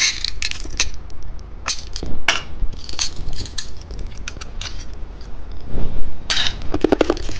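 Plastic candy packaging being handled and opened, crinkling, with many sharp clicks and taps and a louder burst of crackling near the end.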